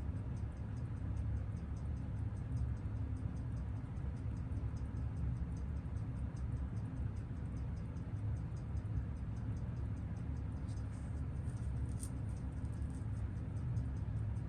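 Seiko 6139 automatic chronograph movement ticking on a timegrapher: an even beat of about six ticks a second, over a steady low hum. The beat is the sign of a freshly serviced movement running with very steady amplitude.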